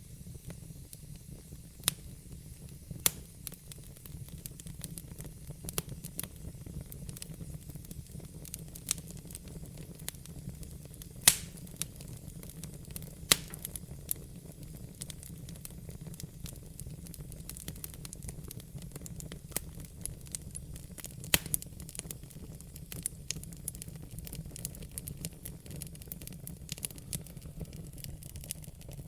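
Wood fire burning in a fireplace: a steady low rumble of the flames with sharp, irregular crackles and pops, a few of them much louder than the rest.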